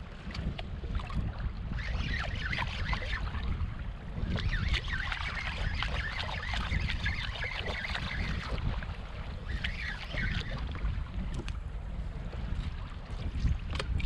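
Wind buffeting the microphone on a kayak at sea, with water lapping and splashing against the hull in stretches through the middle.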